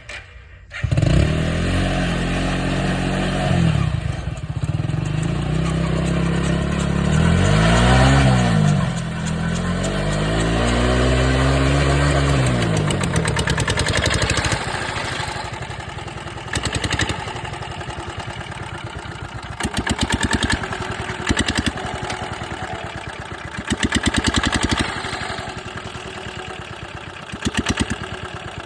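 An engine catches about a second in and is revved up and down a few times. It then settles into a steady idle, with a few short blips of the throttle.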